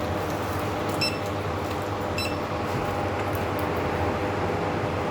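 Steady mechanical hum of a shop's machinery or air conditioning, with short high-pitched electronic beeps about a second in and again just after two seconds.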